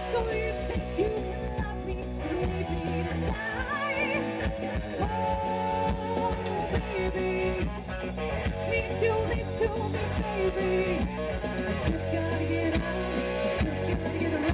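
Live rock band playing a song, with guitar prominent over bass and drums.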